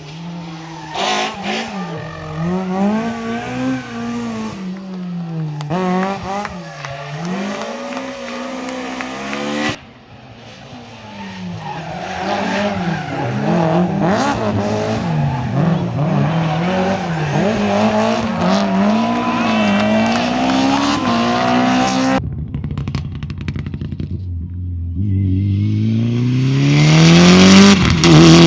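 Rally car engines revving up and down through the gears as cars are driven hard, in several shots cut together, with sudden changes about ten seconds in and again about twenty-two seconds in. Near the end a car accelerates with a steadily rising engine note that becomes the loudest sound.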